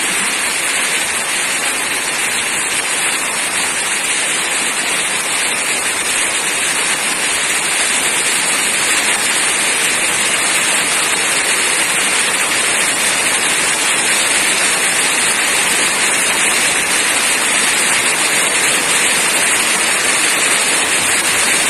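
Heavy rain falling, a steady, even hiss with no pauses.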